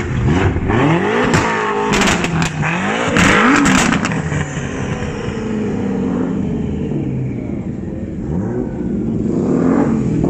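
A car engine revved hard several times, pitch climbing and falling with a few sharp cracks, then settling to a lower running note that rises again near the end. It is loud.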